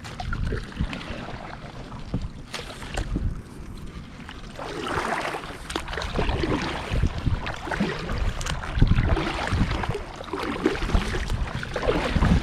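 Water splashing and lapping against a moving kayak's hull, with wind buffeting the microphone.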